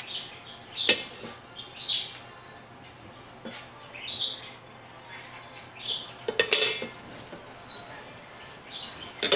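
Short, high chirps of a small bird every second or two, with a few sharp clicks and a brief clatter among them.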